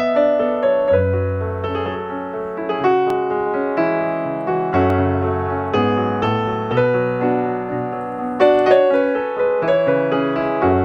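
Solo piano music playing a gentle melody over bass notes.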